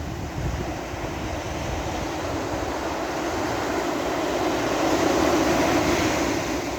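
Sea waves washing onto a beach. The surf builds to its loudest about five seconds in, then eases off.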